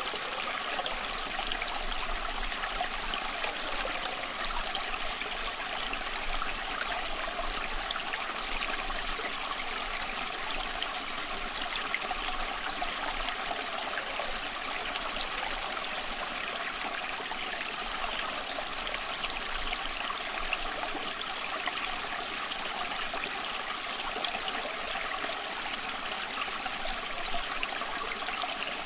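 A small stream of water running and trickling, a steady babbling rush with fine splashing detail.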